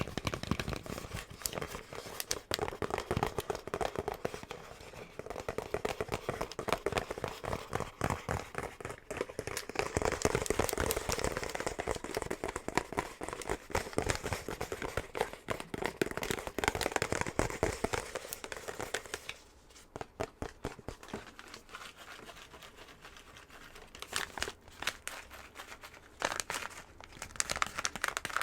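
Fast fingernail tapping and scratching on a box, a dense run of quick taps and scrapes. It goes quieter for a few seconds about two thirds of the way through, then picks up again.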